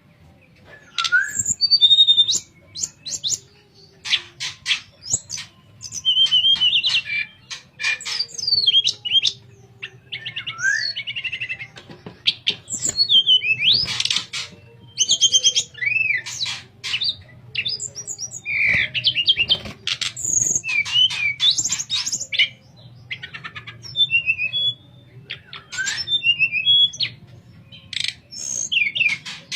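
Tledekan songbird singing a run of varied, flute-like whistled phrases, quick rising and falling notes mixed with fast clicking trills, with short pauses between phrases. A faint steady low hum sits underneath.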